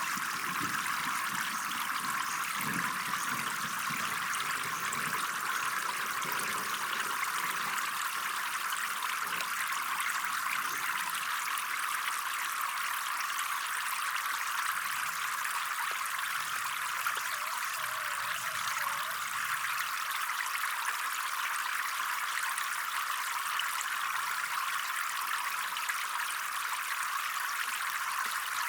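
Water trickling and running steadily, like a small stream flowing into a pond.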